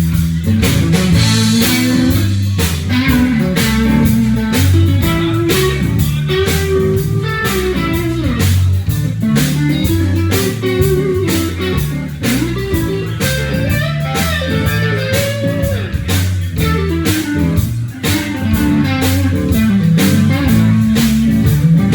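Live blues-rock band playing an instrumental break without vocals. An electric guitar plays a lead line with bending, sliding notes over bass guitar and a steady drum beat.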